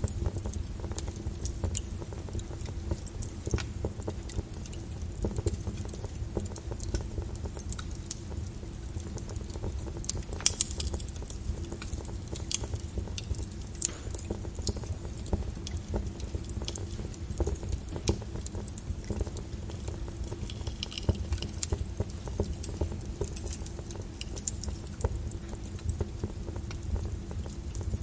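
Wood fire crackling in a fireplace: irregular sharp pops and snaps over a low steady rumble, with one louder pop about ten seconds in.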